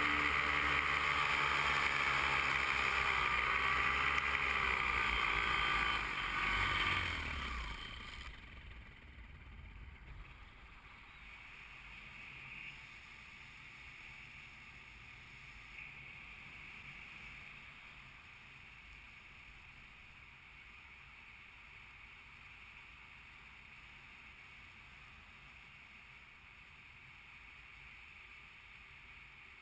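A small aircraft engine running, then cut about seven seconds in, its pitch falling as it winds down. After that only a faint steady rush of wind is left while gliding.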